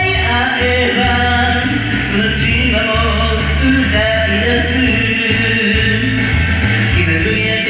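Karaoke music: a pop backing track with a strong bass line and a man singing along.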